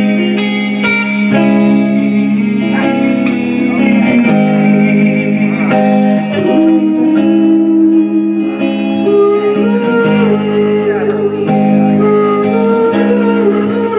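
Live band playing an instrumental passage without singing: guitar chords ringing over held low notes, with a lead line that glides up and down in pitch.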